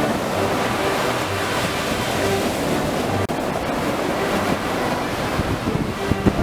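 Baltic Sea waves washing onto the shore in a steady surf, with a brief dropout about three seconds in.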